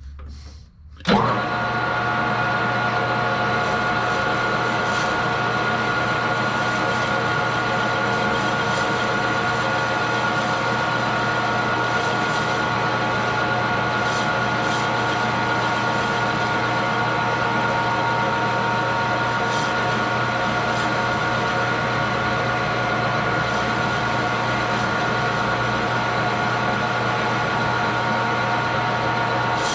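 Metal lathe switched on about a second in and running steadily, turning a part held in a four-jaw chuck down to its shoulder: an even machine hum with several fixed tones over a hiss.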